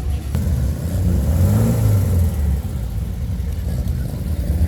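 A classic car's engine running close by, swelling and rising in pitch about a second in, then settling back to a steady rumble.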